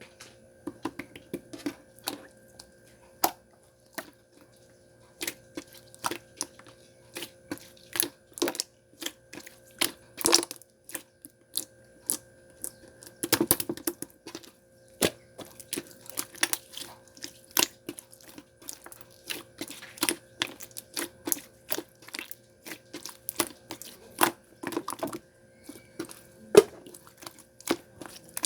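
Clear slime being pressed and stretched by hand, making irregular sharp sticky clicks and small air-bubble pops, one to three a second, over a faint steady hum.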